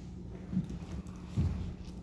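A steady low hum in the room, with two soft, dull thumps about half a second and a second and a half in.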